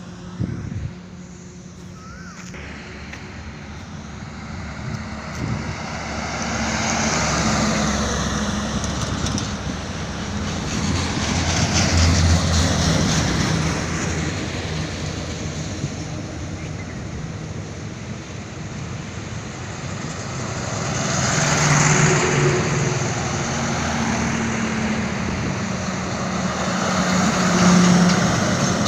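Highway traffic with trucks passing one after another: engine and tyre noise swells and fades about four times. A short knock comes right at the start.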